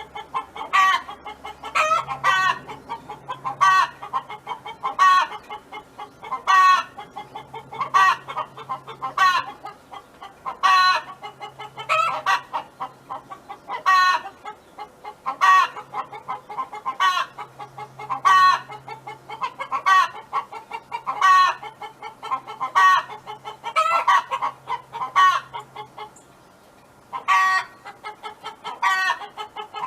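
Domestic hen clucking and calling over and over, a loud call about every second or so with softer clucks in between, pausing briefly near the end.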